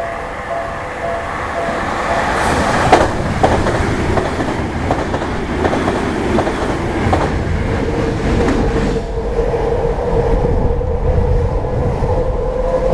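Electric commuter train passing over a level crossing, its wheels clacking over the rail joints in a run of sharp clicks for several seconds, with steady ringing tones over the top.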